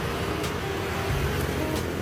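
Street traffic going by: a steady low rumble of passing motor vehicles with a few short clicks.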